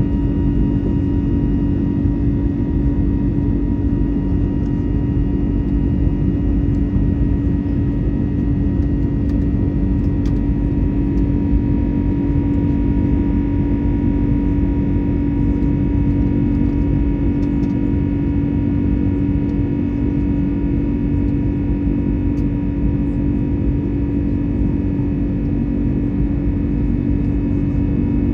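Steady cabin noise inside an Airbus A321neo in flight: a constant rush of engine and airflow noise with a steady drone underneath, unchanging throughout.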